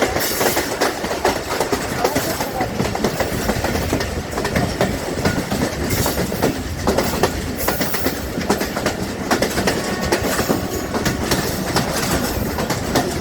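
Millat Express passenger train rolling through the station, its wheels clattering over the rail joints in a steady, rapid clickety-clack over a continuous rumble.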